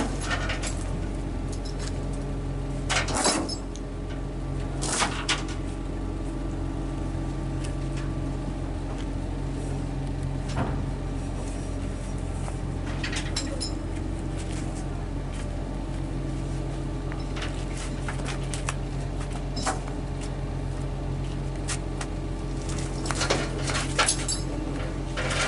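Hino 500 FM320TI truck's diesel engine running with a steady hum, heard from inside the cab, with a handful of short knocks and rattles spread through.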